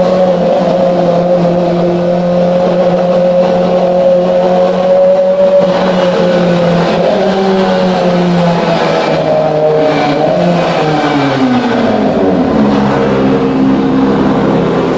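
Kawasaki ZX-25R's 250 cc inline-four running through an aftermarket exhaust, held at a steady high rev. In the second half the pitch falls away over a few seconds and settles at a lower, steady note.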